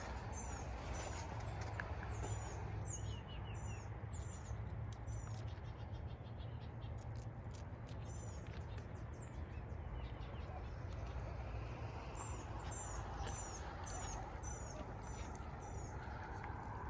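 A bird repeats a short, high chirp about twice a second in two runs, one at the start and one in the second half. Between the runs come faint clicks, over a steady low rumble of wind or ambience.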